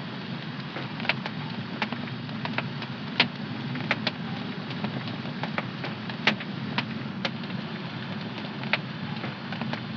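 Wood fire crackling in a home fireplace: irregular sharp pops and snaps, a few a second, over a steady low rush, with the loudest pops about three and six seconds in.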